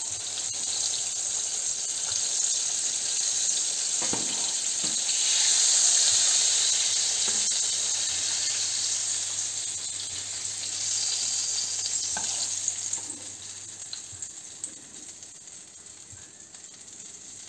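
Eggplant slices in a milk and chickpea-flour batter frying in hot oil in a pan, with a steady sizzle. There are a few light knocks as the slices are lifted out with a metal spatula, and the sizzle dies down over the last few seconds as the pan empties.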